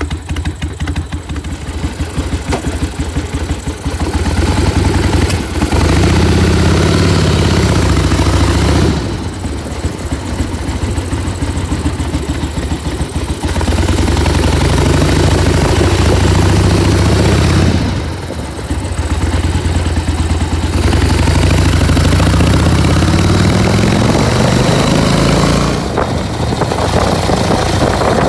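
Harley-Davidson XLH1000 Ironhead Sportster's air-cooled V-twin idling unevenly and revved up three times, each time held for several seconds with the pitch climbing before dropping back to idle.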